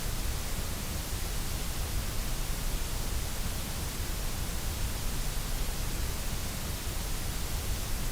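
Steady generated noise of a relaxation noise track: an even, unchanging hiss spread across the whole range, without any rhythm or events.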